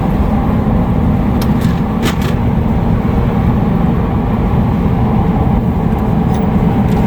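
Steady engine and tyre rumble of a moving vehicle heard from inside the cabin, with a few light clicks about two seconds in.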